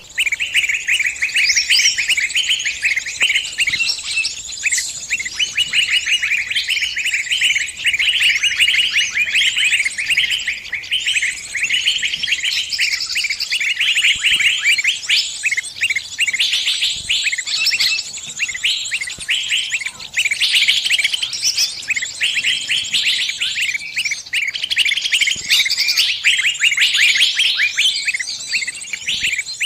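Small bird giving rapid, unbroken high chirps, the distress calls of a trapped bird calling others of its kind for help.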